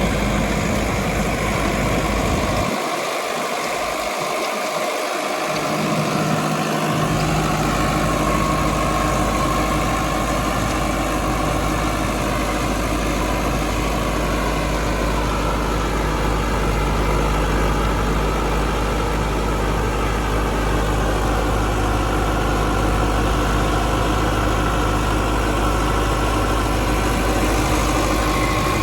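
Sonalika DI 750 Sikander tractor's diesel engine running steadily. Its low rumble drops away briefly about three seconds in and returns a few seconds later.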